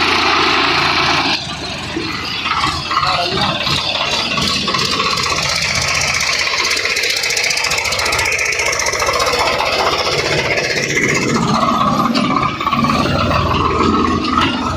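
Swaraj 744 XT tractor's diesel engine running steadily, with an abrupt change in the sound about a second in.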